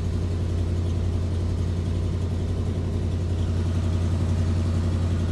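1988 Chevy R30's 350 V8 running at a steady fast idle; it has not yet idled down.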